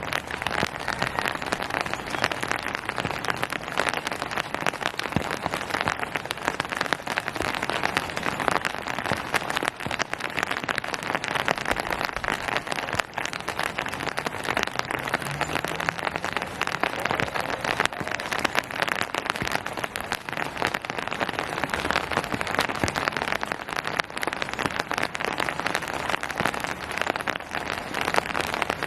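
Rain falling steadily: a dense, even patter of countless drops striking surfaces.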